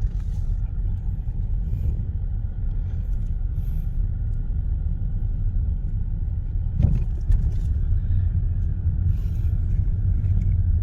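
Steady low rumble of a car heard from inside while it is being driven: engine and road noise. A single knock about seven seconds in.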